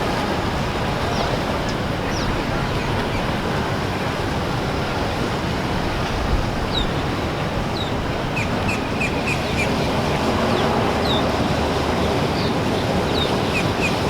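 Steady rush of water and boat noise, with short high bird chirps scattered over it and a quick run of about five chirps a little past the middle.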